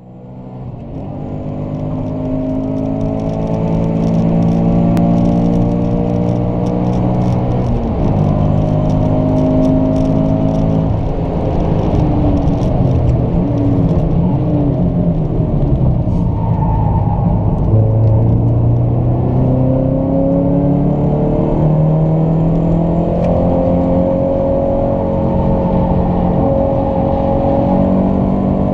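Toyota GT86's 2.0-litre flat-four boxer engine heard from inside the cabin under hard track driving. It revs up through the gears, its pitch climbing and then dropping at each shift or lift for a corner. The sound fades in over the first few seconds.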